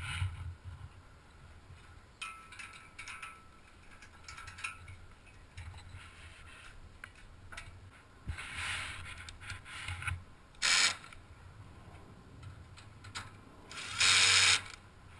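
Ratchet tie-down strap being cranked: scattered metallic ratchet clicks, with a short loud rasp about eleven seconds in and a longer one near the end.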